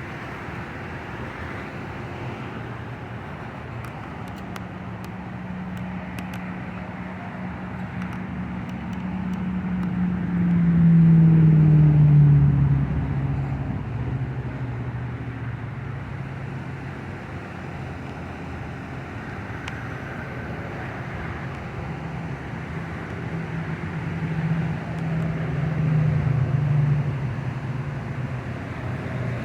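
Road traffic: a vehicle drives past about ten seconds in, its engine note loudest as it goes by and dropping in pitch, and a second vehicle passes near the end, over steady road noise.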